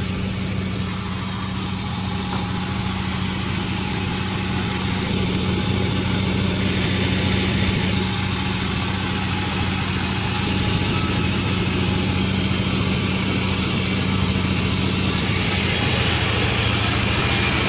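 Sawmill machinery running steadily with a constant low engine hum under a wide mechanical noise, growing brighter and hissier about fifteen seconds in.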